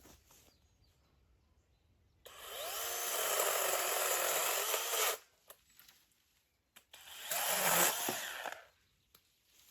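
Power tool working hazel wood, run in two bursts: a steady run of about three seconds, then a shorter one of about a second and a half.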